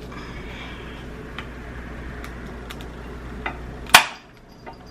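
Faint scattered clicks of a king crab leg shell being handled and worked open, with one loud sharp click about four seconds in.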